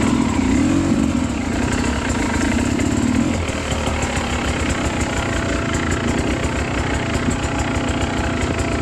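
Two-stroke dirt bike engine running at low revs while the bike is ridden slowly over wet trail. Its pitch rises and falls a little in the first few seconds, then holds steady.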